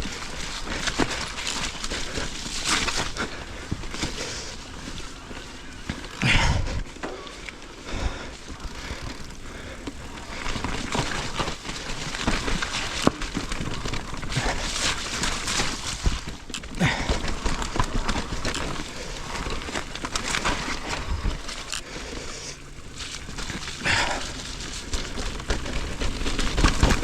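Mountain bike ridden along a dirt trail: steady tyre noise, with frequent knocks and rattles from the bike over roots and bumps.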